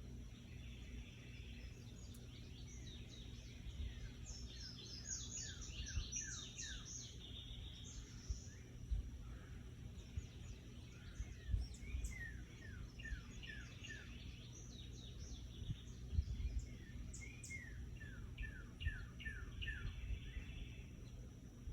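A bird calling in three runs of quick, short falling chirps, over a steady low rumble with a few soft thumps.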